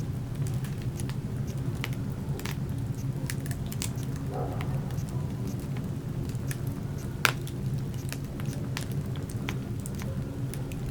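Wood fire crackling: irregular snaps and pops of burning logs over a steady low rumble, with one sharp pop about seven seconds in the loudest.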